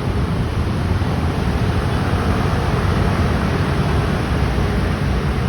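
Dense stream of motor scooters passing in heavy rush-hour traffic: a loud, steady mass of engine and road noise.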